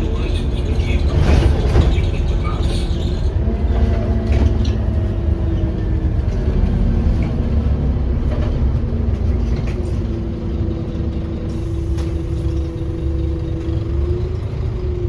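Scania OmniCity bus's diesel engine and drivetrain running under a steady low rumble, with a whine that falls in pitch a few seconds in and then holds steady. A brief knock sounds about a second and a half in.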